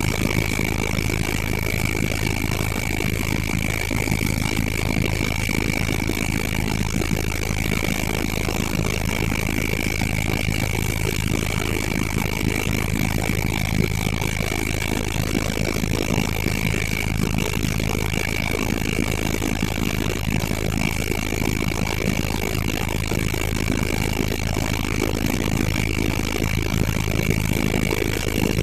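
Helicopter's turbine engine and rotor running steadily, a constant low drone with a steady high whine over it.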